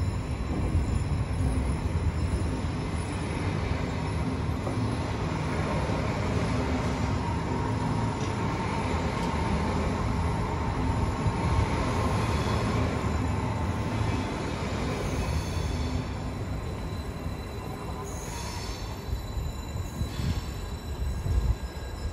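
Electric passenger trains rolling slowly through the station tracks: a steady rumble of wheels on rail with a faint steady whine in the middle, then short bursts of high wheel squeal near the end.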